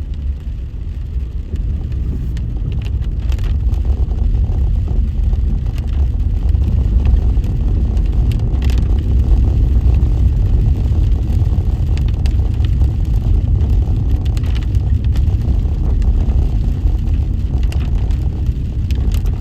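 Subaru Outback driving: a steady low rumble of engine and tyre noise, with a few light knocks.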